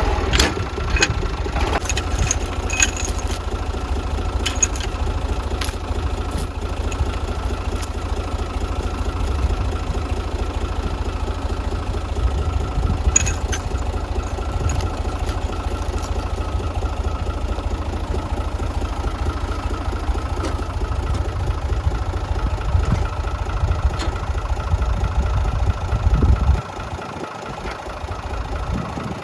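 Tractor engine running steadily with a low rumble. Sharp clicks or clanks come in the first several seconds and again around the middle. The engine sound drops off sharply near the end.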